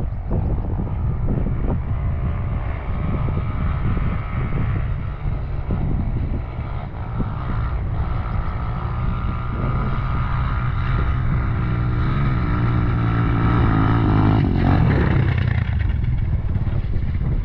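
BSE Z5 enduro dirt bike's engine running under throttle while being ridden, with wind buffeting the microphone. The engine note holds steadier and louder through the middle, then drops off near the end.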